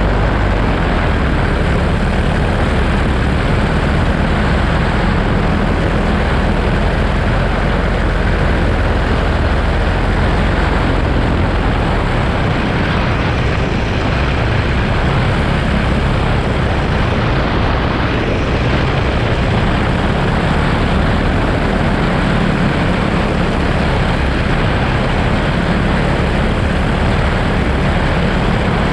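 Paramotor engine and propeller running steadily in flight, a loud even drone with no change in pitch.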